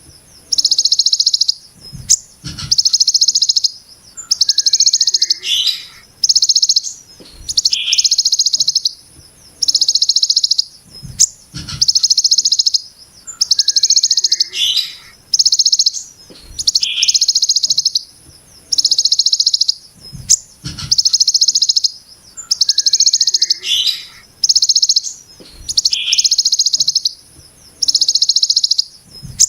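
A songbird repeating the harsh, rapid buzzing trill that bird keepers call a 'brem ciblek gunung'. Each trill lasts about a second and comes roughly every two seconds, some opening with a short lower note.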